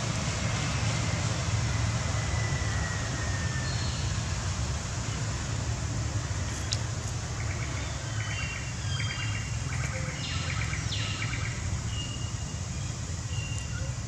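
Outdoor ambience with a steady low rumble and hiss. From about six to twelve seconds in, a bird calls in quick runs of repeated high chirps.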